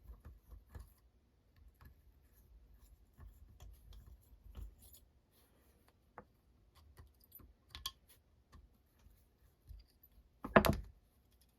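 Scattered light clicks and scrapes of small metal parts and tools being handled while a nitro RC engine is taken apart. A louder sharp clack comes near the end as the engine's bottom plate comes off.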